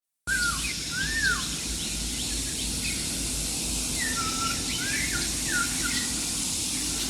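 Birds singing outdoors, with short chirps and arching whistled calls over a steady background hiss; the sound cuts in suddenly just after the start.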